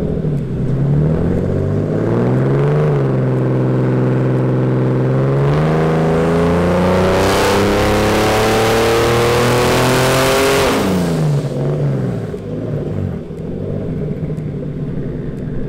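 Turbocharged BMW E36 M3 straight-six making a dyno pull. It blips up and holds a few seconds, then revs steadily higher under full throttle for about five seconds with a rising rush of turbo and intake noise. It drops back to idle about eleven seconds in.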